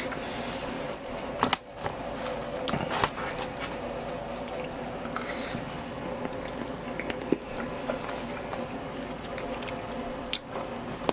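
Close-miked eating of braised pig's trotter (jokbal): wet chewing and biting, with many small sharp clicks throughout.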